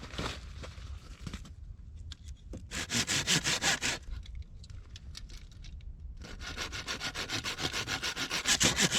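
Hand saw cutting through wood in quick back-and-forth strokes: a short run of strokes about three seconds in, a pause, then steady sawing from about six seconds in.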